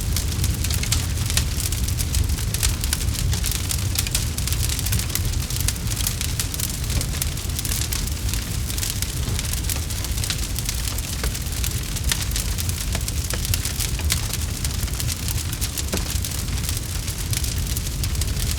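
Campfire burning, with dense, continuous crackling and small pops over a low steady rumble.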